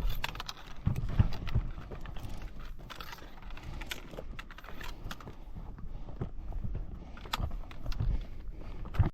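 Footsteps of trail-running shoes on rocky mountain ground: irregular clicks and scuffs of stones underfoot.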